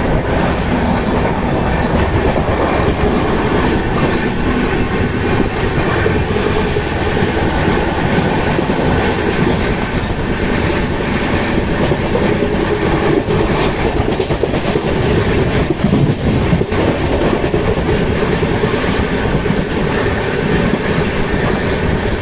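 Passenger express train running at speed, heard from an open coach door: a steady loud rumble of wheels on the rails, with occasional clicks over rail joints.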